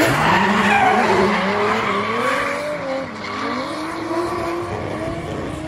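Drift car engine revving, its pitch rising and falling as the throttle is worked, over the hiss and squeal of tyres sliding.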